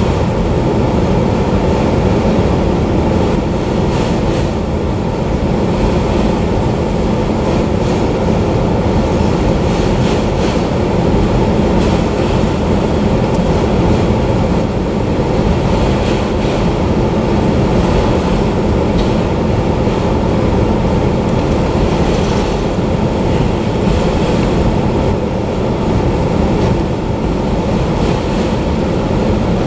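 Enclosed autorack freight cars rolling past, a loud steady rumble of steel wheels on rail with occasional faint clicks.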